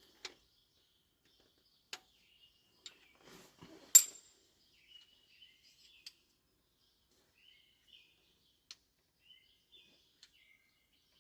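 Scattered clicks and light metal clinks of hand tools on a diesel engine's valve rocker arms during a valve lash adjustment, the loudest a sharp ringing clink about four seconds in. Faint bird chirps sound in the background.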